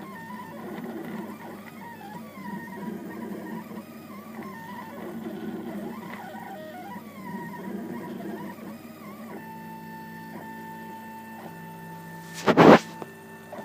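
RepRap Prusa Mendel 3D printer's stepper motors whining as the print head moves, the pitch wandering up and down with each move, then settling into a steadier tone with regular ticks for the last few seconds. A loud, brief noise stands out near the end.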